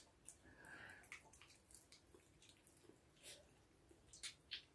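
Faint wet mouth clicks and smacks from someone chewing chicken feet close to the microphone, with a few sharper clicks near the end.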